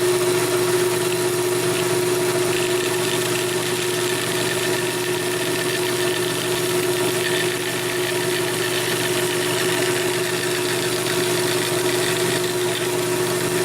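Bandsaw running with a steady hum while it cuts a board for a jewelry box's side pieces.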